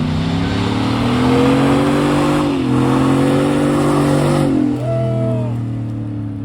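Pickup truck engine revving hard, its pitch climbing with a brief dip about 2.5 s in, under a loud rushing noise of spinning tyres. About 4.5 s in the tyre noise stops and the engine drops back to lower revs.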